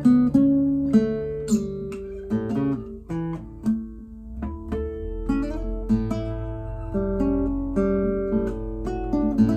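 Nylon-string classical guitar, a Torres FE-18-style instrument, played solo: a flowing run of plucked notes over ringing bass notes, with a few quick strums and note onsets.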